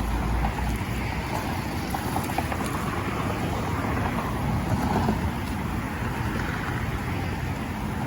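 Steady rushing noise with a low rumble, with wind buffeting the microphone.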